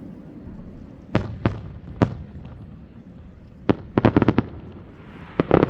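Aerial fireworks bursting: three separate bangs in the first two seconds, then a quick run of several sharp pops about four seconds in, and a denser crackling run starting near the end.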